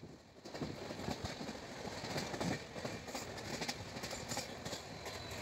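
Express passenger train running along the track, heard from aboard the coach: a steady rumble of wheels on rails with irregular clicks and clatters.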